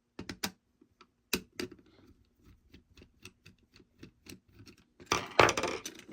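Small plastic clicks and taps from handling a Plarail toy locomotive and its battery: a few sharp clicks in the first second and a half, then a run of light irregular ticks, and a louder scraping fumble about five seconds in.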